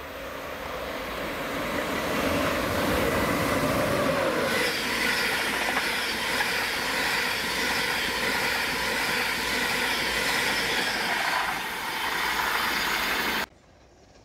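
LNER InterCity 225 express train of Mark 4 coaches passing close at speed: a rushing rumble of wheels on rail. It grows louder over the first two seconds, stays steady, then cuts off abruptly near the end.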